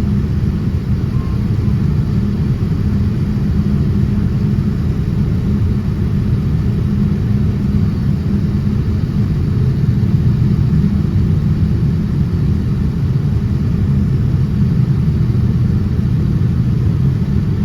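Steady low rumble inside the cabin of a United Boeing 787-10 airliner: engine and airflow noise, holding even throughout.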